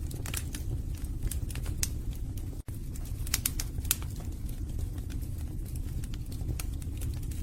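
Wood fire burning in a fireplace: a steady low rumble of flames with frequent sharp, irregular crackles and pops from the burning logs. The sound cuts out for an instant about a third of the way in.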